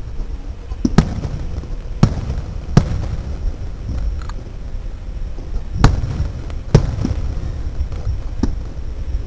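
Fireworks display: about seven sharp bangs of aerial shells bursting at irregular intervals, some close together, over a continuous low rumble.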